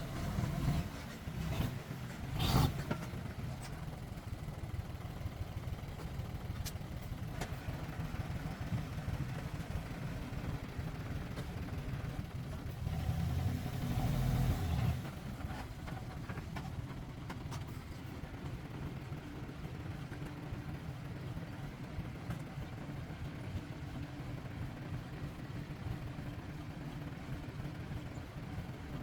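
Diesel engine of heavy earthmoving machinery running steadily with a low rumble, with a sharp knock a couple of seconds in and a louder surge of engine noise around the middle.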